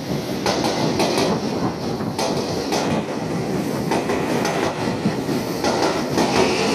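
Seibu 6000 series electric train pulling in alongside the platform as it slows, its wheels clacking over rail joints and points. A higher steady tone comes in near the end.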